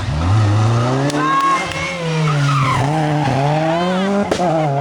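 Rally car engine revving hard through a tight hairpin, its pitch falling and rising as the driver lifts and gets back on the throttle. Short tyre squeals come from the car sliding through the turn, and there is a sharp crack near the end.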